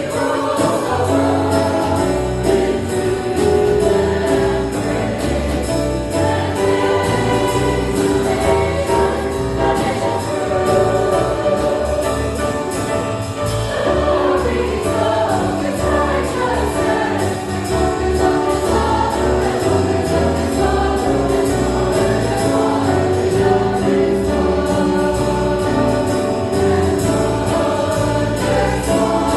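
Church choir singing a jazz-style Christmas song with band accompaniment and a steady swing beat.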